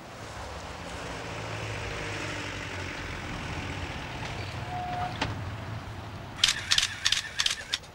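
Car engine running steadily with street traffic noise, then a quick run of sharp clicks about six and a half seconds in.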